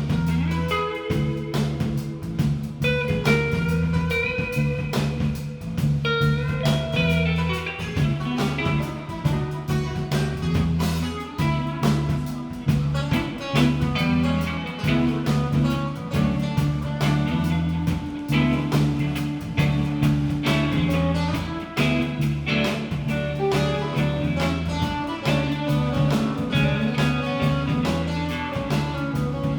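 Live band playing an instrumental passage: guitar lines over a steady bass line and drum kit, in a bluesy style.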